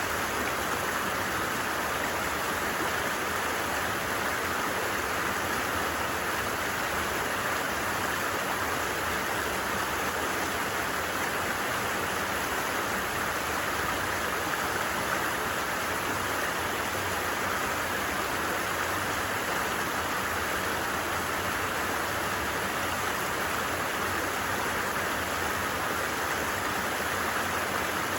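A stream flowing over rocks: a steady, even rush of running water that does not change.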